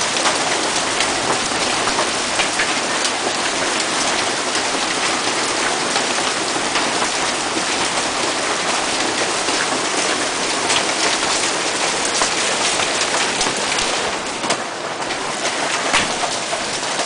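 Hail falling hard and pelting the ground and other surfaces: a dense, steady clatter with many sharp individual hits standing out.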